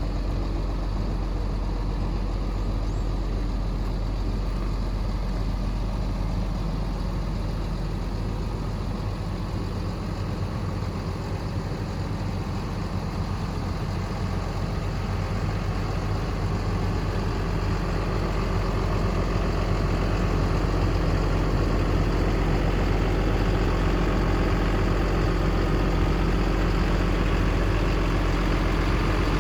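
Cummins ISB 6.7-litre turbo diesel in a Ford F750 truck idling steadily, growing somewhat louder about two-thirds of the way through.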